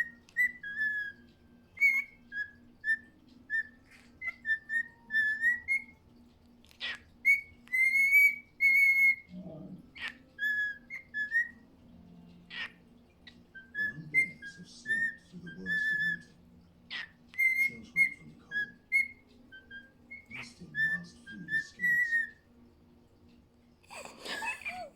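Male cockatiel whistling a courtship song to his mate: strings of short, warbling whistled notes around one pitch, some gliding up or down, with a few short sharp sounds between phrases.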